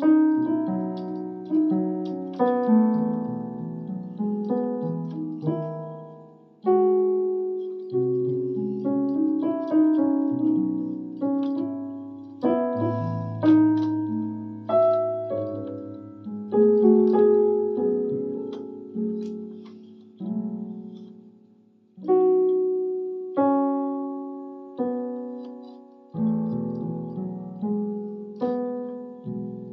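Electronic keyboard on a piano voice playing a slow, gentle melody over chords, each phrase struck and left to die away.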